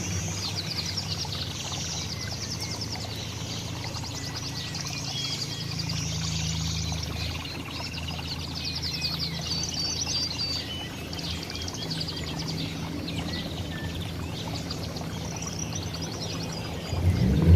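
A mix of small songbirds chirping and twittering, with many short calls and rapid trills, over a steady low hum; a louder sound comes in near the end.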